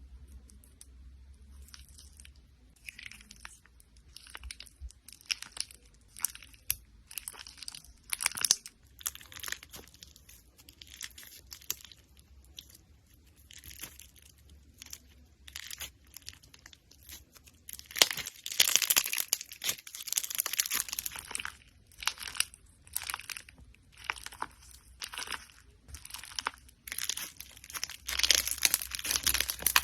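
Slime being squished and mixed by hand: an irregular run of short, crackling squishes and pops. They come thickest and loudest about two-thirds of the way through and again near the end.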